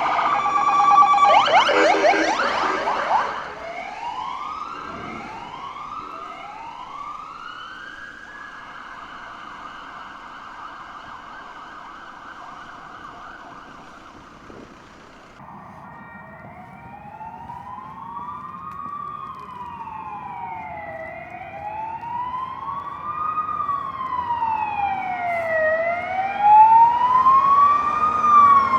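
Ambulance sirens. A rapid warbling yelp comes first, then a siren winds up three times and holds a steady tone. After a sudden cut, a wail siren rises and falls slowly, growing louder near the end as it approaches.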